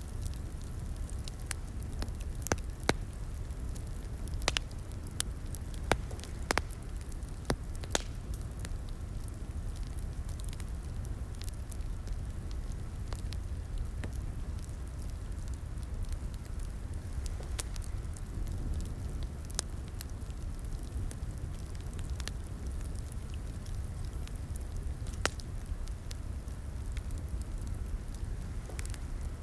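Fireplace fire crackling: a steady low rumble of burning wood with irregular sharp pops and snaps, several louder pops in the first few seconds.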